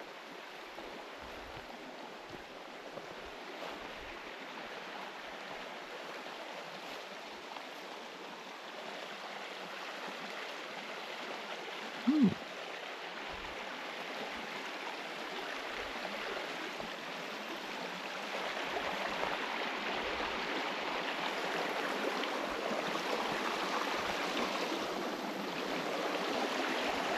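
A small forest river rushing steadily, growing gradually louder. A short hum of a person's voice comes about twelve seconds in.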